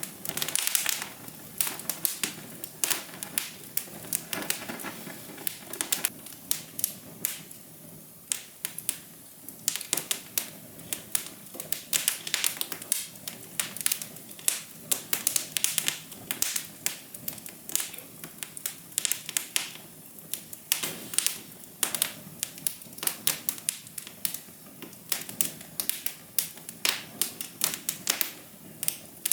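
Fire crackling: irregular sharp pops and snaps, many a second, over a faint steady hiss.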